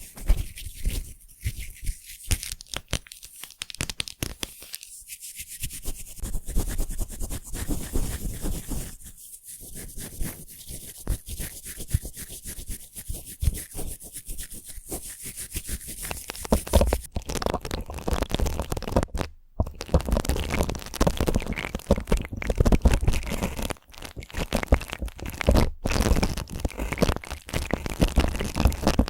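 ASMR brushing: stiff brush bristles scratching in rapid strokes. About halfway through the strokes turn louder and fuller.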